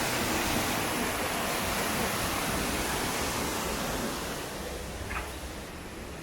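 Steady rushing noise like falling or running water, easing about four seconds in.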